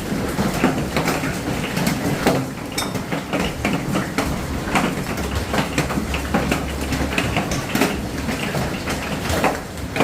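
Hailstones pelting hard surfaces: a dense, irregular clatter of sharp strikes, with now and then a louder crack from a big stone.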